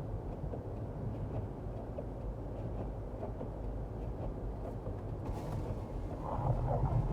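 Steady low rumble of a car driving on a wet road, heard from inside the cabin. It swells a little louder near the end.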